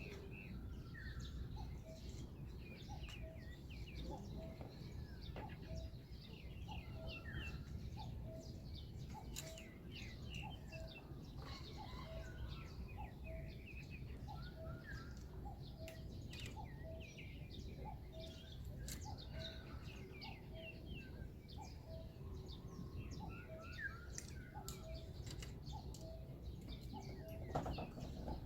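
Several small birds chirping and trilling at dawn, with a short low note repeated about once a second throughout, over a steady low rumble.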